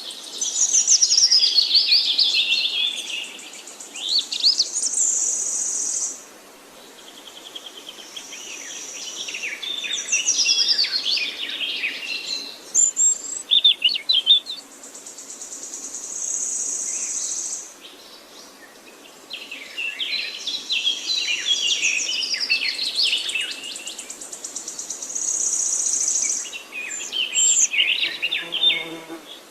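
Woodland songbirds singing: quick, varied phrases of whistles and chirps, with long high trills recurring every few seconds, in bouts separated by short lulls.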